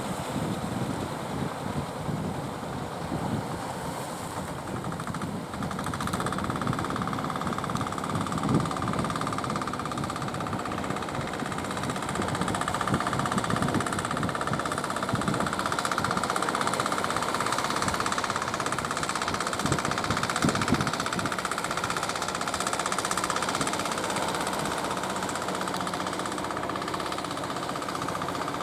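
Motorboat engine running steadily, with a rapid knocking rumble and a steady higher whine that comes in about six seconds in.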